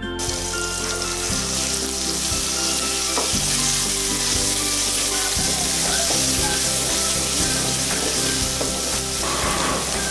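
Sliced shallots and ginger-garlic paste sizzling steadily in hot oil in a metal kadai, stirred with a ladle.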